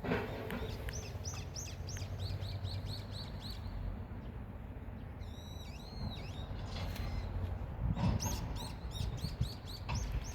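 Small songbird singing in phrases of quick repeated high chirps, three bouts of them, over a low steady background rumble.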